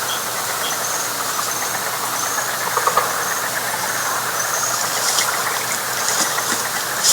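Night frog chorus: a dense, steady pulsing din with short high chirps repeating over it and a few brief louder clicks.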